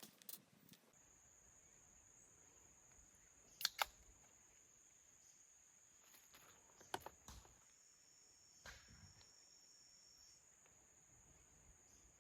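Faint outdoor ambience: a steady high-pitched insect trill, with a second, lower trill joining for a few seconds in the middle. A few soft clicks are heard around the middle.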